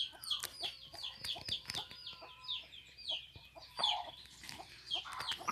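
Chickens clucking, against a steady run of quick, high, falling chirps, several a second.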